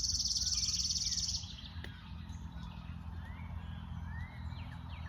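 Wild birds calling: a high, fast, even trill for the first second and a half, then scattered faint short chirps over a low steady background rumble.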